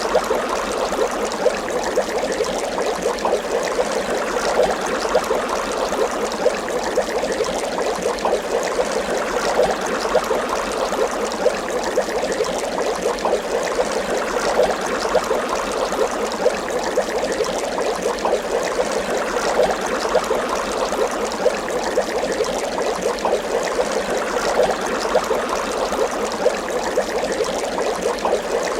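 Water bubbling continuously, a dense steady stream of small bubble pops and gurgles.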